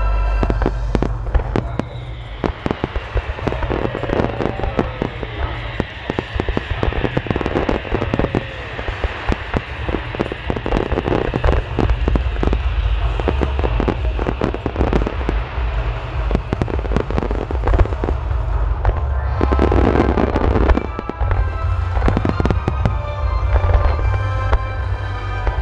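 A dense, near-continuous barrage of aerial firework shells bursting and crackling, with heavy booms, over music played along with the show. The music stands out most clearly at the start and again near the end.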